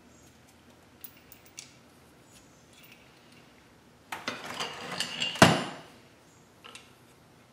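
Metal tools and transmission parts clinking and clattering as they are handled: a few light clicks, then about a second and a half of rattling metal ending in one loud clank that rings briefly.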